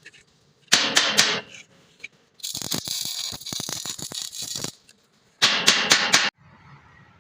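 Workshop metalwork clatter: a quick group of about four sharp strikes, then about two seconds of dense crackling hiss, then another quick group of about four strikes.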